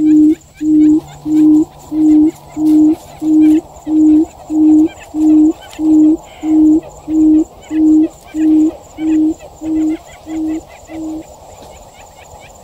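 A quail's low hooting call: a steady series of even, same-pitched hoots, about one and a half a second, fading over the last few and stopping about eleven seconds in.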